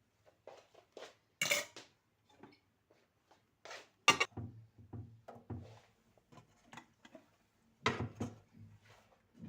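Kitchen handling sounds: dishes and cutlery clinking and knocking in a string of separate taps, with louder clatters about a second and a half in, about four seconds in and near the end.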